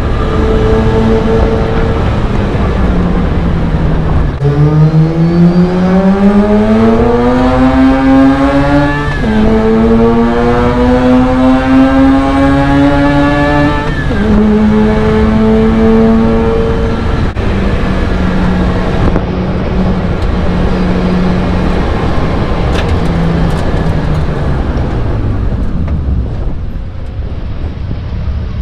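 Mazda RX-8's Renesis two-rotor rotary engine accelerating up through the gears. The revs climb, drop at an upshift about nine seconds in, climb again and drop at a second upshift about fourteen seconds in, then hold level and slowly fall as it cruises and eases off. The revs start rising again right at the end.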